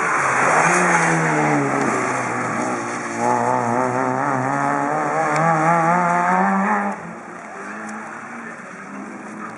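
Rally car engine at full race pitch passing close, its note falling as it goes by. It then revs up again with a wavering, rising note, and about seven seconds in it drops to a fainter, steadier engine sound as it moves away.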